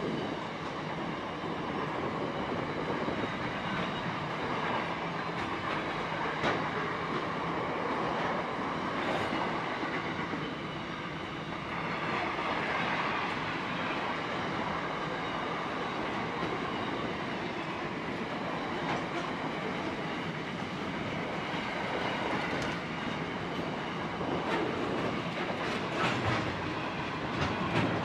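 Container flat wagons of a long intermodal freight train rolling past: a steady rumble of steel wheels on the rails with a clickety-clack, and a few sharper clicks near the end.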